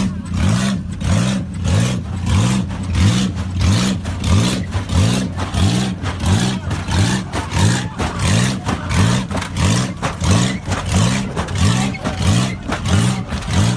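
A motor vehicle's engine revving up again and again in a quick, even rhythm, about two rising revs a second.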